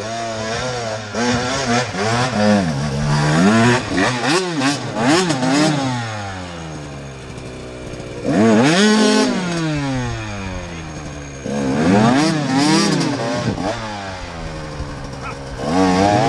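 Enduro motorcycle engine revving hard in repeated bursts, its pitch climbing and dropping again and again as the bike labours up a steep, leafy climb.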